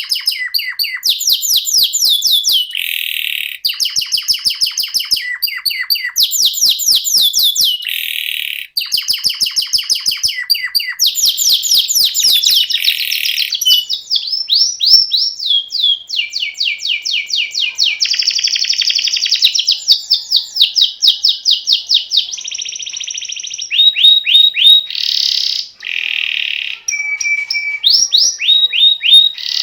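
A domestic canary singing a long unbroken song: rolling trills, each a rapid run of identical falling notes, changing pitch and speed from phrase to phrase, with short buzzy notes between the runs.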